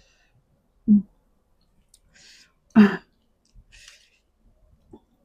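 A person's short throat-clearing grunt about a second in, then a single cough near three seconds, with brief breathy hisses just before and after the cough.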